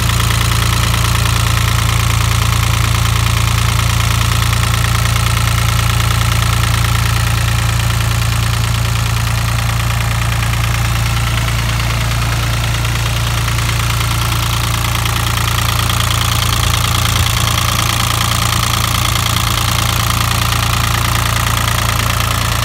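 Nissan three-cylinder diesel engine of a 1983 International 274 offset tractor idling steadily.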